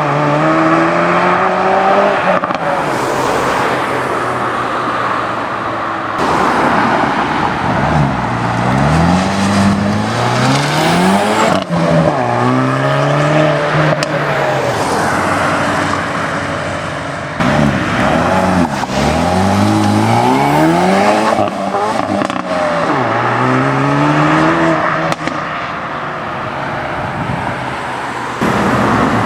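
Hyundai i30N 2.0-litre turbocharged four-cylinder engines accelerating hard, several cars in turn. Each time the engine note rises with the revs, drops at a gear change and climbs again.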